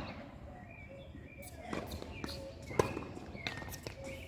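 Tennis ball knocks on a court: several sharp, unevenly spaced hits and bounces, the loudest about three seconds in, with faint short chirps between them.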